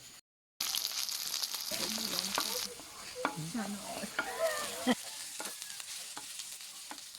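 A steady sizzling hiss, with a few sharp clicks and knocks scattered through the middle.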